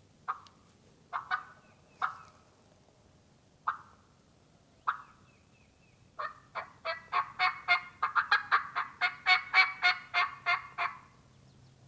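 Turkey yelps: several single notes spaced out, then a fast run of about twenty yelps, about four a second, that grows louder and then fades.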